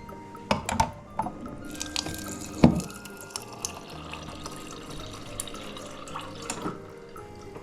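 Water dispenser of an American-style Samsung fridge running water into a glass for several seconds, after a few clicks and a knock as the glass is pushed against the dispenser lever.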